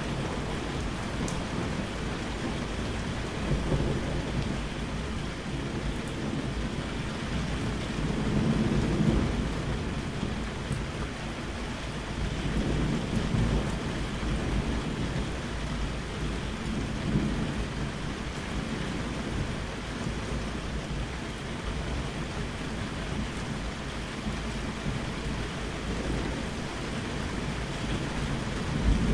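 Steady rain with low rolls of thunder swelling and fading several times, the strongest about eight to ten seconds in.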